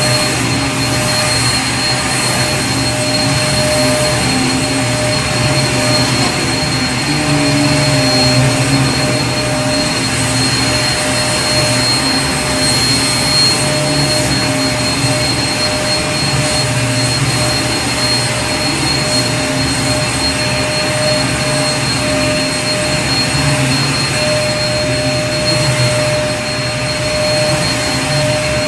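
Vacuum cleaner motor running steadily, a continuous rushing hiss with a constant high whine and low hum.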